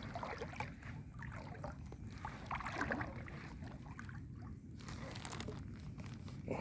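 Faint sloshing of floodwater as a person wades through it.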